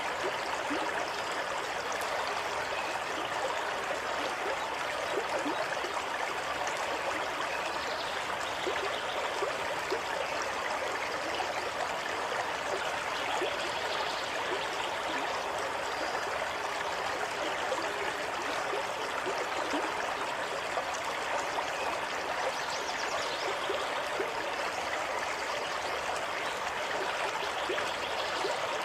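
Stream water running steadily over stones, an even rushing wash with small trickles and splashes in it.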